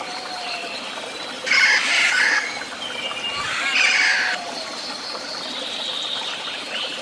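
Birds calling, with two loud, harsh calls about one and a half and three and a half seconds in, each under a second long, over fainter whistled calls.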